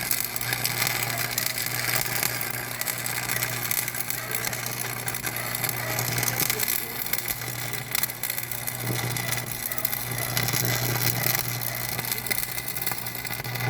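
A machine running steadily, a low hum under a dense hiss of mechanical noise, cutting off suddenly at the end.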